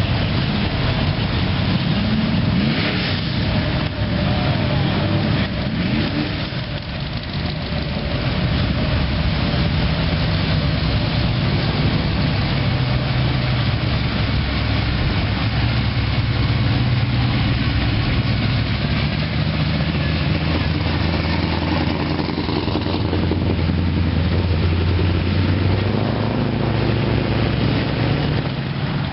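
A car engine running at idle, its low pitch shifting now and then as it is revved slightly.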